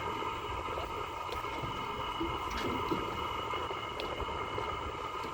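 A boat engine running steadily: a constant hum with several held tones over a low rumble, with a few faint clicks.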